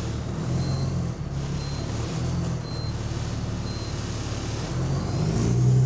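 City bus diesel engine running with a deep exhaust rumble, then pulling harder near the end as a turbo whistle rises in pitch. The strong bass comes from a leaking exhaust. Short high beeps repeat about once a second throughout.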